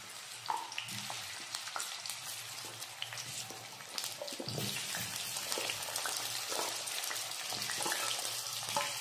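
Pieces of raw jackfruit sizzling and crackling in hot oil in a kadhai as they are dropped in, a few at a time. The sizzle grows a little louder about halfway through as more pieces go in.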